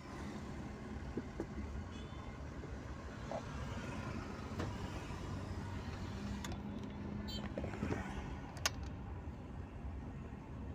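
Strong wind rumbling on the microphone, with a few brief clicks.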